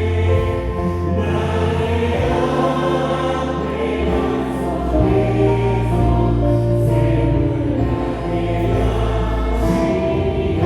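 Church worship team singing a praise song in several voices, carried by a live band with a sustained bass line under held notes.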